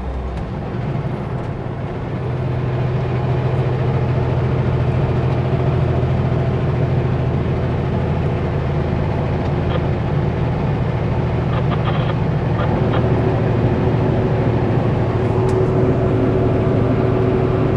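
Kenworth W900L semi truck's diesel engine running steadily under road noise while driving on the highway. The engine note steps up about a second in and the drone grows louder over the next couple of seconds, then holds steady.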